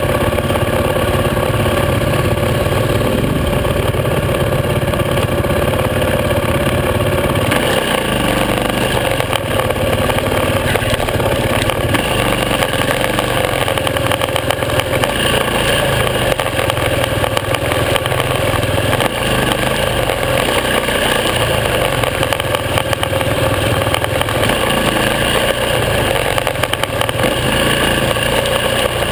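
Supermoto motorcycle engine running steadily while the bike is ridden along a trail. The sound grows brighter about eight seconds in.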